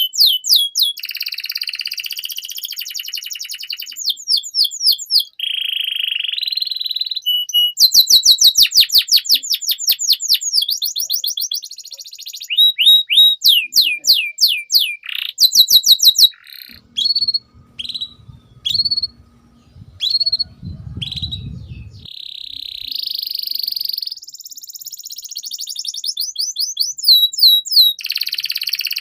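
Domestic canary singing a long song: fast runs of repeated sweeping notes alternating with buzzy rolls, broken around the middle by short separate notes. A low rumble sits under the song for a few seconds in the middle. This is a full 'gacor' canary song of the kind played as a master recording for young canaries to learn from.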